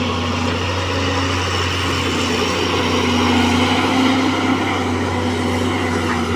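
Caterpillar hydraulic excavator's diesel engine running steadily under load, rising slightly in pitch and loudness around the middle, as the machine strains to climb out of soft mud with travel motors too weak to pull it up.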